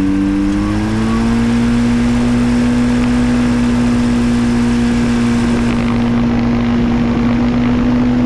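Flightstar II ultralight's two-stroke engine and propeller running, heard from a camera mounted on the aircraft, with a steady rush of air. The engine note rises over about the first second, then holds at a steady speed.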